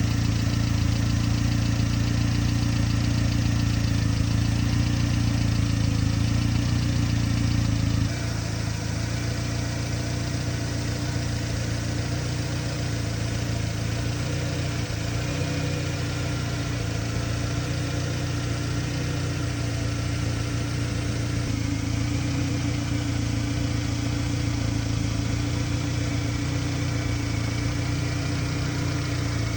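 1998 Subaru Sambar truck's small 660 cc four-cylinder engine idling steadily. The sound drops a little and settles lower about eight seconds in.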